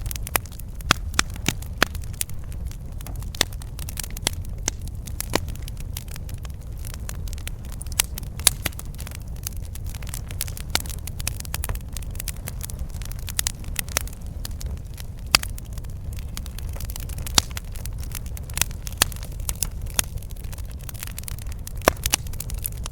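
Campfire burning: wood crackling with frequent irregular sharp pops over a steady low rumble.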